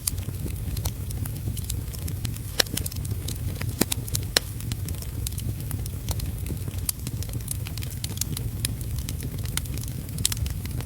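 Wood fire crackling in a fireplace, with irregular snaps and a few louder pops, over a steady low rumble and a faint hiss of heavy rain.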